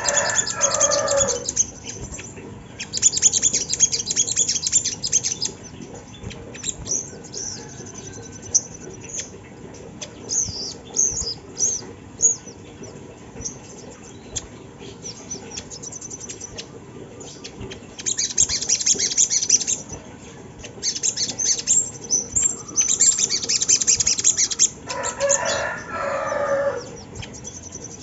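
A little spiderhunter (sogon) calling in rapid, very high trilled bursts of a few seconds each, repeated several times with scattered single chirps between. A lower, falling call from another bird comes at the start and again near the end.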